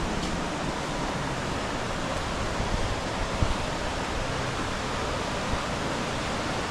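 Rushing river water at a waterfall, a steady even wash of noise.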